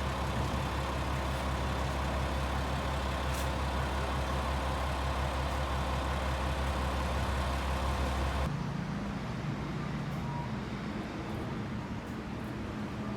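Diesel railcar running, a steady low engine drone. About eight seconds in it drops abruptly to a quieter, lighter running sound.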